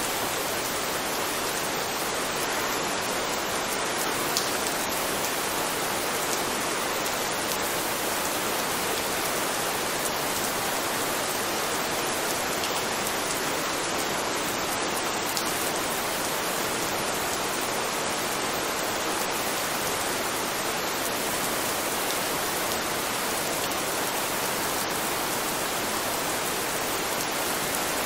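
Steady rain falling, an even hiss that does not change, with a few faint drop ticks.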